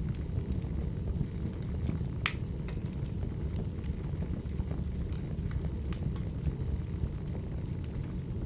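Firewood burning: a steady low rumble with scattered sharp crackles and pops, one louder pop about two seconds in.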